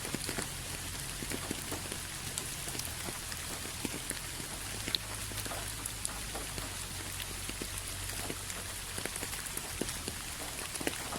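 Steady rain falling, an even hiss with many individual drops ticking sharply on a surface, over a faint low hum.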